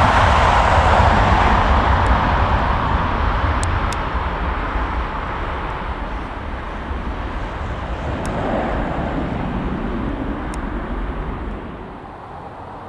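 Jet airliner's engine noise fading slowly as the aircraft moves away, dropping off sharply near the end.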